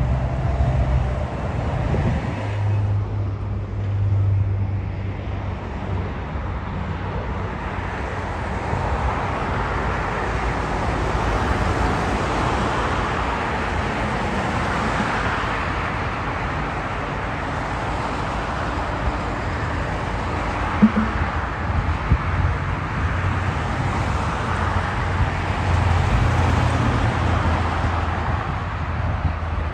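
Jet airliner engine noise, a steady roar that swells and eases twice as the aircraft passes, over a low rumble.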